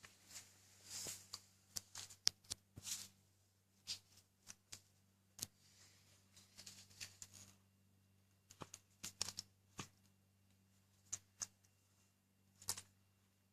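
Faint, scattered rustling and sharp clicks, irregular and a second or so apart, over a low steady hum.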